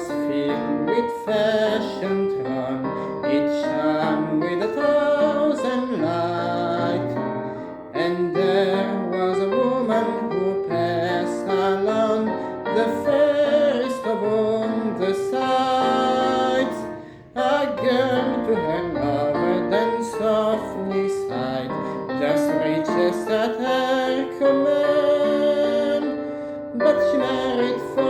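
A singer and a piano performing a sentimental parlour ballad of about 1900, the voice carrying the verse melody over the piano accompaniment.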